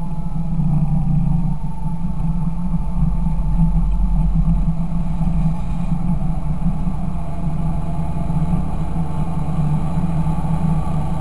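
Fendt 926 Favorite tractor's six-cylinder diesel engine running steadily, a deep, even drone.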